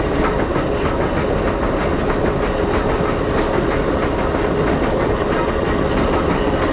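A steam-hauled train rolling along the track: a steady rumble with the clatter of wheels on rail joints, heard from an open observation car.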